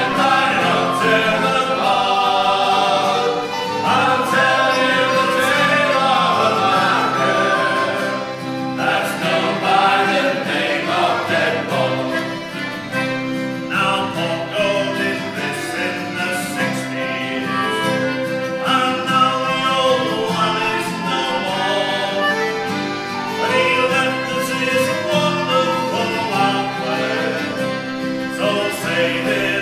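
A sea shanty sung by a group of voices together, with instrumental accompaniment.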